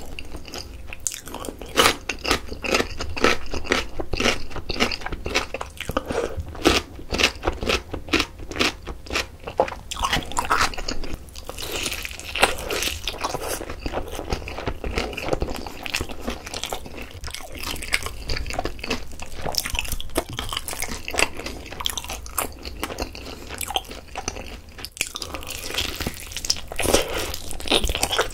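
Close-miked biting and chewing of a Korean yangnyeom (sweet-spicy sauce-coated) fried chicken drumstick: crisp crust crunching in quick, irregular bites, mixed with wet chewing.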